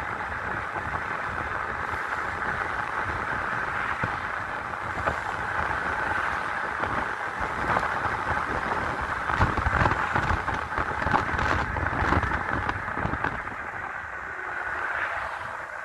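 Wind rushing over the microphone, with road and tyre rumble from a 5000-watt electric bike riding at speed. It is a steady rushing noise with uneven gusts.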